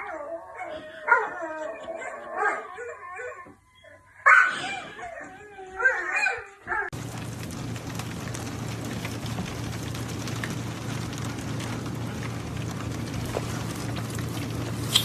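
A dog vocalizing in drawn-out, wavering whines and yips for about seven seconds. Then the sound changes abruptly to a steady low hum with hiss.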